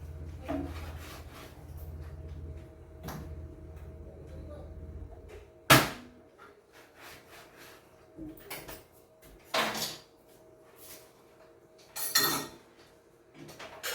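Kitchen clatter: several sharp knocks of cabinet doors and dishes being handled, the loudest a bang a little under six seconds in. A low hum underneath stops about five seconds in.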